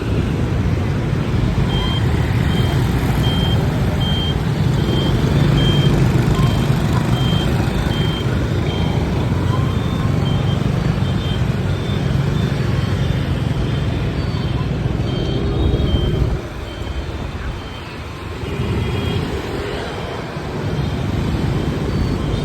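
Steady low rumble of a motorbike ride through city traffic, with a run of short high beeps about every two-thirds of a second through the first two-thirds of the stretch.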